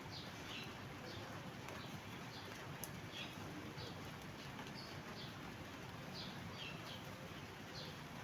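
Faint, short, high chirps of small birds, repeating about once or twice a second over a steady background hiss.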